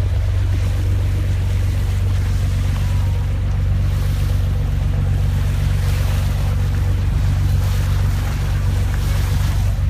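Fishing boat's engine running steadily with a low, even hum, over the wash of sea water and some wind on the microphone.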